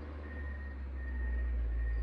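John Deere 670 motor grader's diesel engine running with a low rumble that grows louder about a second in, as under more load. A faint high beep repeats about every half second over it.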